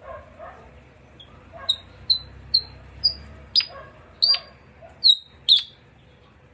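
Philippine pied fantail singing: a run of about eight short, sharp, high chirping notes about half a second apart, starting a little under two seconds in. Two softer, lower sounds come just before them, at the very start.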